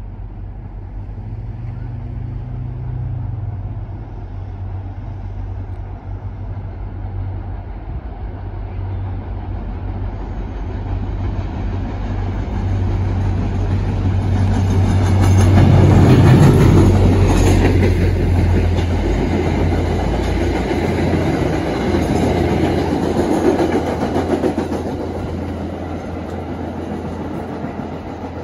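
MBTA diesel commuter train passing. The locomotive's engine hum builds as it approaches and is loudest about halfway through, then the coaches roll by with wheel noise on the rails and slowly fade.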